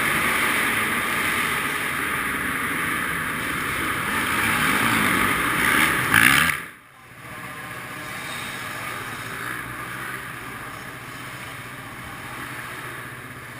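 Motocross bike engine running under throttle with wind rush, its pitch rising to a peak about six seconds in, then cutting off abruptly to a quieter, steady engine sound for the rest.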